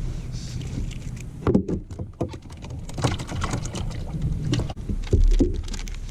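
Irregular clicks and knocks of fishing tackle being handled in a kayak while a lure is changed, with a steady low rumble underneath and the loudest knocks about a second and a half in and about five seconds in.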